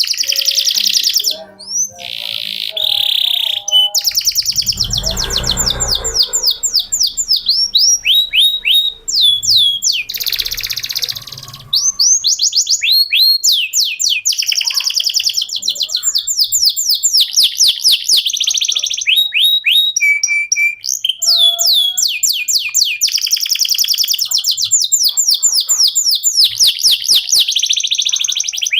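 Male domestic canary singing a long unbroken song: rapid rolling trills of repeated falling notes, with buzzy passages between them. A low rumble sits under the song about five seconds in.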